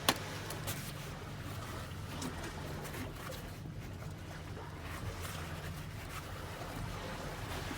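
Ferry's diesel engine running with a steady low drone, with a few faint clicks over it.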